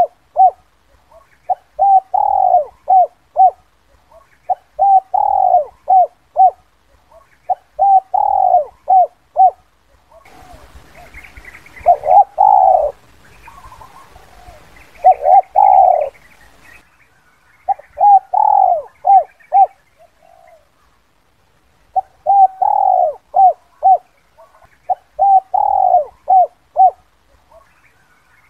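Spotted dove cooing: a phrase of several low coos, a long note among short ones, repeated about every three seconds. Partway through, faint hiss and higher chirps sit under the coos for a few seconds.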